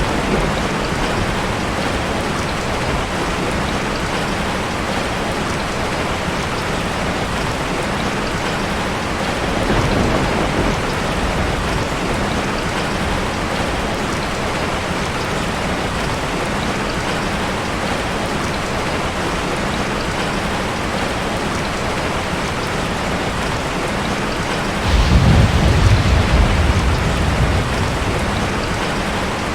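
Heavy rain falling steadily, with a soft roll of thunder about ten seconds in and a louder, longer rumble of thunder near the end.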